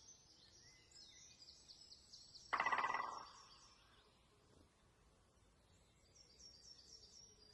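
Faint bird chirping, quick repeated high notes, with a short rattling call about two and a half seconds in.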